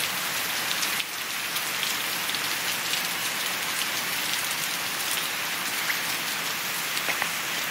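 Heavy rain pouring down in a downpour: a steady hiss with scattered drop impacts.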